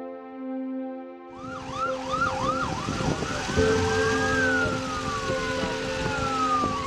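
Emergency vehicle siren coming in about a second in with a fast yelp, then slowing into a wail that rises and falls, over a rush of background noise. Soft piano background music continues underneath.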